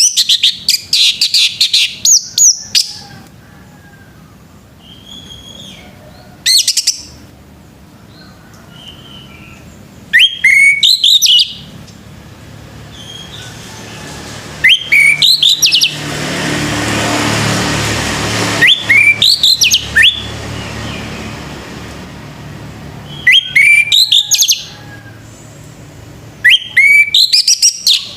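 Male orange-headed thrush singing: about seven loud phrases of rapid whistled notes sweeping up and down, each a second or two long and a few seconds apart, the first the longest. A broad rush of noise swells and fades between the middle phrases.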